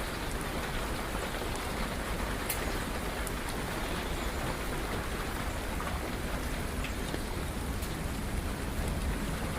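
Steady rain falling, an even hiss with a few sharp drop clicks here and there.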